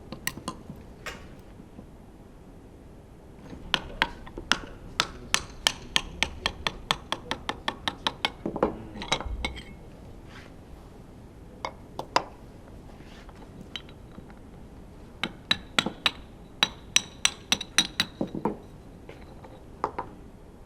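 Metal hand tools clinking and tapping against engine parts during the teardown of a Honda V10 Formula One engine. The sharp clicks come in two quick runs of several a second, with scattered single clicks between them.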